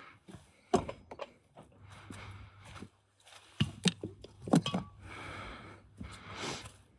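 Tools and metal parts being handled during car repair: a scattering of sharp clinks and knocks, with a short cluster of them a little past halfway.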